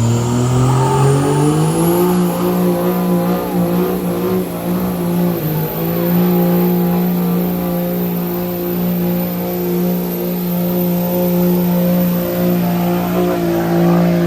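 Truck engine revved up over the first two seconds, then held at high revs in a steady drone with a faint high whine, as in a burnout. Near the end the revs drop away sharply.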